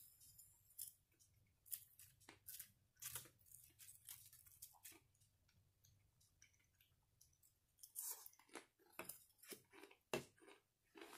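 A person chewing and crunching fried squid (ika karaage) close to the microphone: irregular crunches and wet mouth clicks, thinning out for a couple of seconds midway and coming thicker again after about 8 seconds.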